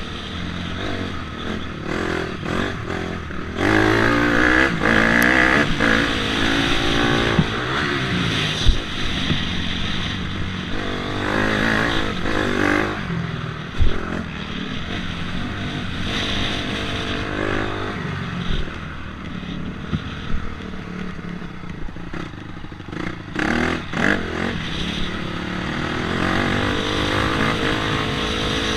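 Dirt bike engine being ridden hard, revving up and down as the throttle opens and closes and the gears change, with a couple of sharp knocks.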